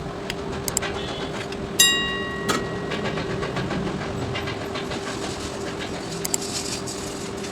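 A steady hum with scattered light clicks, and about two seconds in a single bright metallic ring that fades away over a second.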